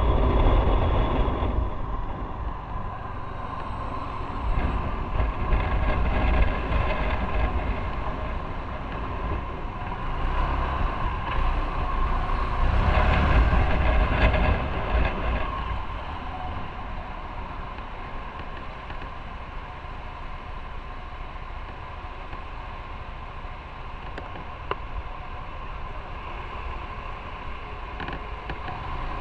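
Motorcycle running while being ridden, with road and wind noise. It grows louder for a few seconds in the middle, then settles to a steadier, quieter run.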